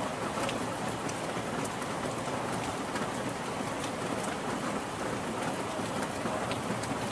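Steady rainfall with scattered drops ticking on a surface, no thunder.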